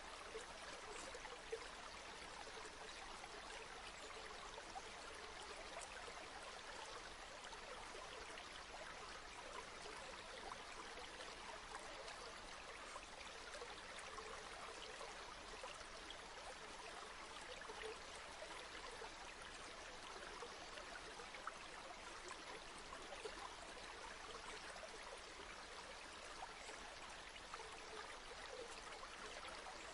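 River water flowing steadily, a continuous even babble with many small splashes and trickles.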